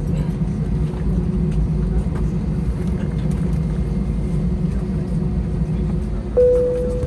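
Steady low cabin rumble of an Airbus A321 after landing. About six seconds in, a single clear cabin chime rings out and slowly fades, the chime typically heard when the seatbelt sign is switched off at the gate.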